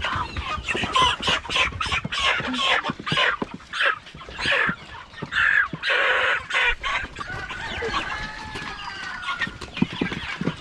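A flock of Cornish Cross meat chickens clucking and squawking, agitated as they are caught by hand. The calls come thick and loud for the first several seconds, then thin out to scattered gliding calls.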